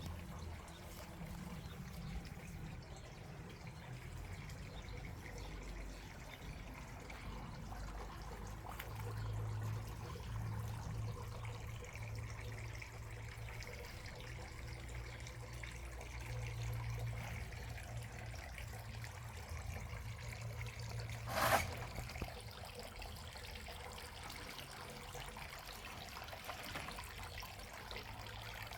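Water trickling steadily over a low rumble, with one short sharp noise about three-quarters of the way through.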